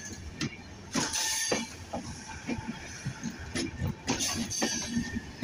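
Bangladesh Railway passenger coaches rolling past on the track, with the wheels giving irregular metallic knocks and clanks over a steady rumble. There are louder, higher bursts about a second in and again around four seconds.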